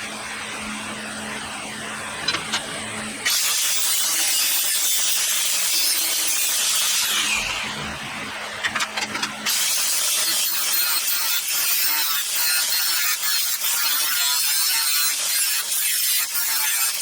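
Power grinder grinding the ends of light-gauge steel bars to shape them for welding: two long spells of harsh grinding noise, each starting abruptly, with a quieter humming pause between them.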